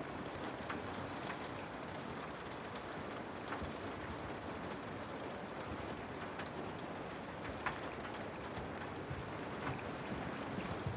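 Steady rain, with individual drops ticking sharply against a hard surface such as window glass.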